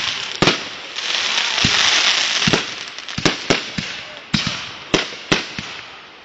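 Consumer fireworks going off: a loud hissing rush swells and fades, broken by sharp bangs. The bangs come about once a second at first, then several in quick succession in the second half.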